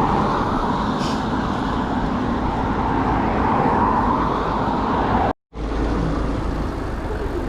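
Steady road traffic noise, cars running along a town road, with a low rumble underneath. The sound cuts out completely for a split second about five seconds in.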